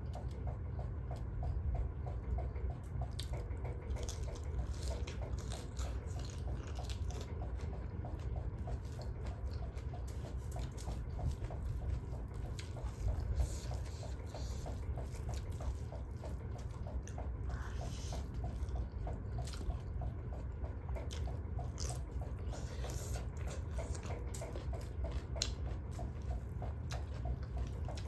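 Close-up eating sounds: wet chewing and lip smacks with irregular short clicks, from a person eating duck curry, over a steady low hum.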